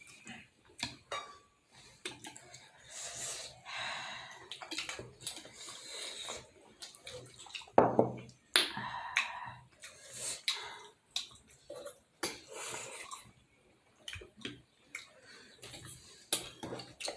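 Close-up eating sounds of momos being chewed and slurped, with repeated small clinks of cutlery against a plate.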